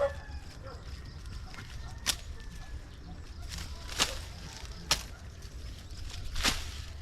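Four short, sharp snaps spaced a second or two apart, over a steady low rumble.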